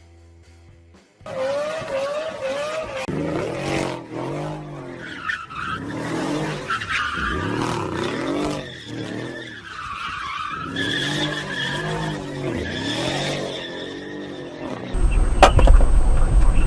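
Car tyres squealing and skidding while the engine revs up and down over and over, as in a car sliding or drifting. About 15 seconds in, a louder, deeper rumble abruptly takes over.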